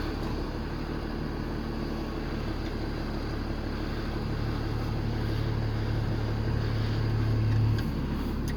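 Loader engine running under hydraulic load as the lift raises a truck cab; a low hum grows louder from about halfway through and cuts off suddenly near the end.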